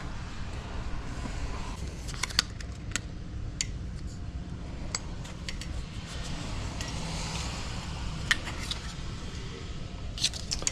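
Small metal parts of door-lock hardware clinking and clicking as they are handled, a dozen or so separate clicks over a steady low hum.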